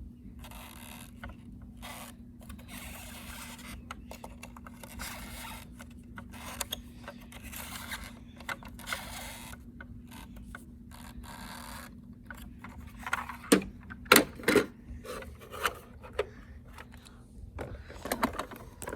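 Plastic toy truck being handled and its parts worked, giving scattered scrapes and clicks, with a few sharp louder clacks about two-thirds of the way in.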